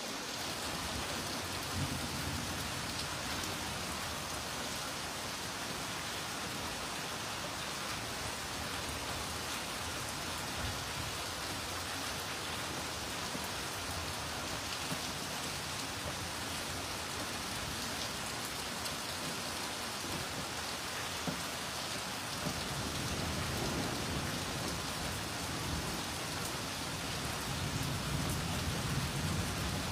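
Heavy rain falling steadily. A low rumble swells near the end.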